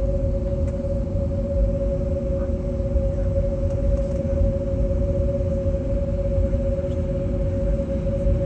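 Cabin noise inside an Airbus A321neo with its CFM LEAP-1A engines running at steady power: a low rumble with a constant two-tone hum that holds its pitch.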